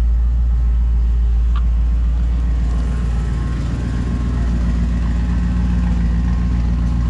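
1963 Ford Thunderbird Sports Roadster's 390 V8 idling steadily just after a cold start, the engine still cold, exhaust going through dual Smithy's mufflers.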